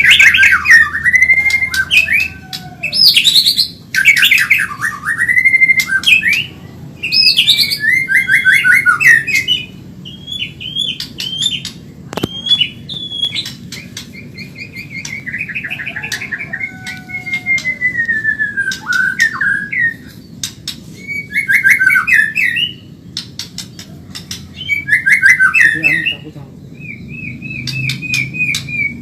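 White-rumped shama (murai batu Medan) singing fast and loud: varied whistled phrases, rapid trills and chattering notes delivered in bursts with short pauses between them.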